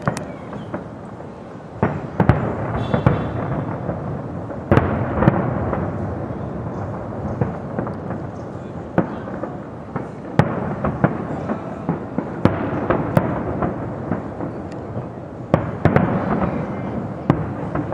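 Fireworks going off: an irregular string of sharp bangs over a continuous crackling din, with a few louder blasts standing out.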